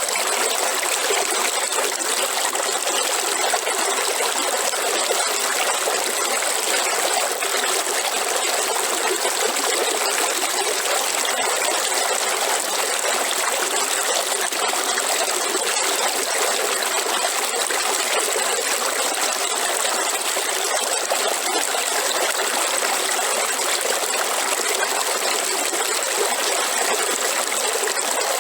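Waterfall: a steady rush of falling water, with a faint steady hiss high up.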